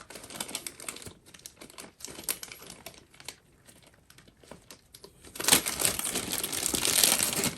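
Packaging crinkling and rustling, with scattered small clicks and taps, growing much louder and denser for the last two seconds.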